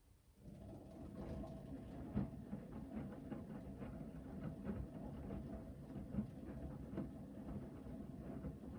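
Hoover VHD 9163 ZI front-loading washing machine in its main wash: after a pause, the drum starts turning again about half a second in, with a steady motor hum and laundry and water tumbling and sloshing. A couple of louder knocks come as the load drops.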